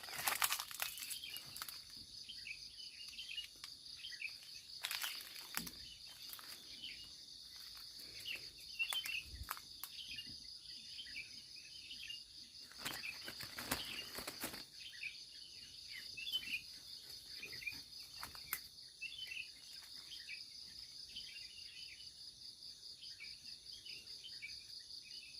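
Forest insect chorus: a steady high cricket trill with scattered chirps over it. A few brief rustles cut in, the longest about halfway through.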